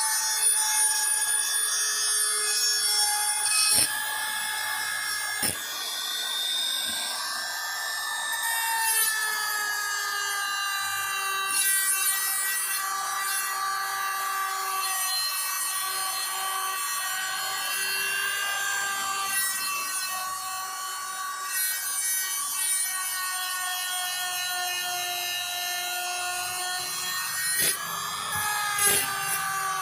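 Electric power tool motor running with a steady whine whose pitch sags slightly and recovers as it is loaded, with a few sharp clicks, mostly near the end.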